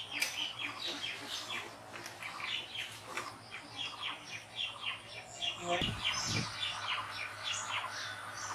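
Small birds chirping and calling over and over, with a couple of low thumps about six seconds in.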